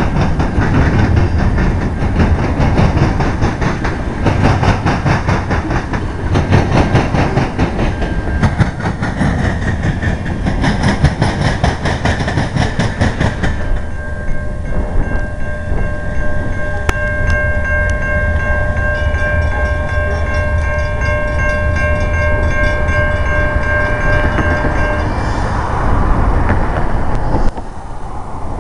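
Freight train cars rolling past close by, their wheels rumbling and clattering over the rails. About halfway through, a steady high-pitched sound made of several tones sets in, holds for about ten seconds, then stops.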